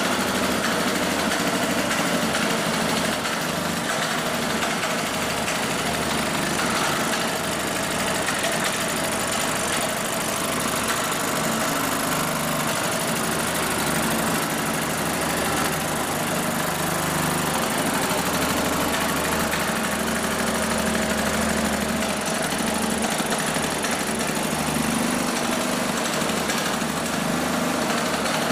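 Small Solex 49 cc two-stroke single-cylinder moped engine running steadily, its note shifting only slightly.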